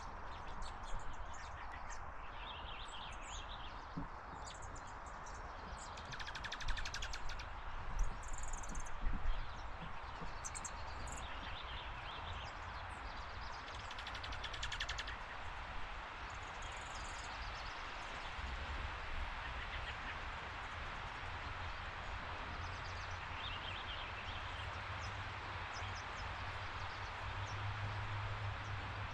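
Wild birds chirping and calling now and then over a steady outdoor background hiss and low rumble. The calls come mostly in the first half.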